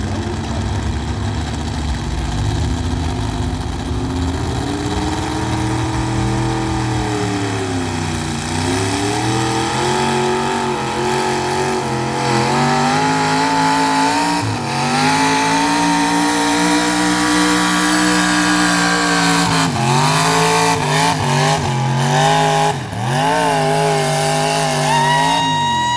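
Pulling tractor's engine running hard under full load as it drags the weight sled, its pitch wavering with several brief dips and climbing highest near the end.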